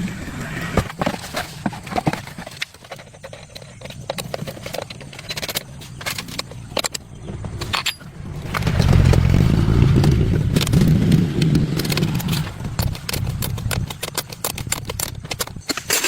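Scattered clicks and scrapes, then a vehicle engine running with a strong low rumble from about halfway, cut off suddenly at the end.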